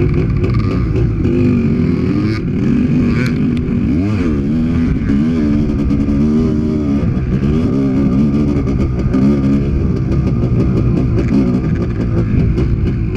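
Honda CR500's 500 cc single-cylinder two-stroke engine heard close up from on board while being ridden hard, its pitch rising and falling repeatedly as the throttle opens and closes.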